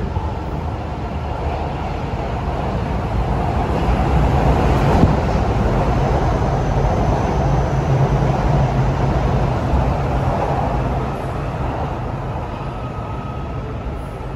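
MRT metro train running alongside the station platform: a steady rumble of wheels and motors that builds over the first few seconds, is loudest in the middle, and eases off over the last few seconds.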